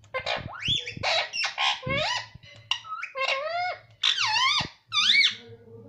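Pet parrot calling in a rapid string of short squeaky chirps and whistles, many of them sweeping up or down in pitch, stopping shortly before the end.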